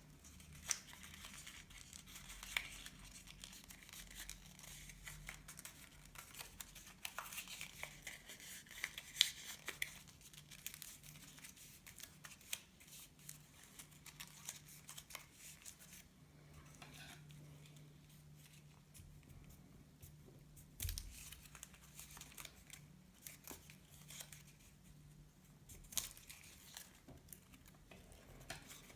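Paper being handled and folded by hand: faint rustling and crinkling with scattered sharp creasing clicks, busiest in the first third, with a few louder single ticks later on.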